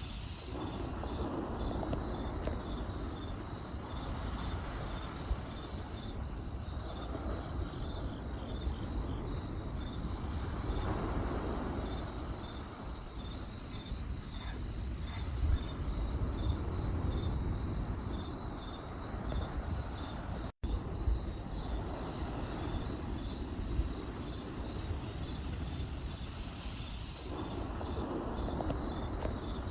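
Crickets chirping in a steady, pulsing trill over the low rumble of a campfire, with a few sharp crackles. The sound cuts out for an instant about two-thirds of the way through.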